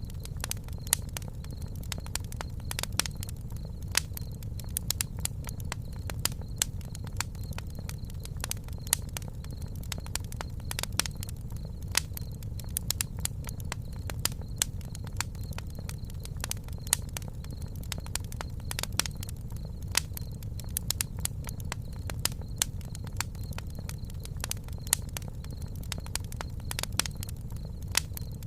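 Campfire crackling, with frequent sharp irregular pops over a steady low rumble of the burning wood.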